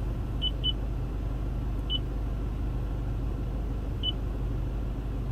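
Short high button-press beeps from a Toyota Land Cruiser Prado's infotainment system as navigation menu items are selected. Two come in quick succession, then a single one, then another. Under them is the steady low hum of the idling diesel engine heard from the cabin.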